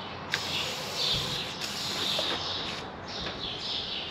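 Small birds chirping over and over, with a single sharp click about a third of a second in.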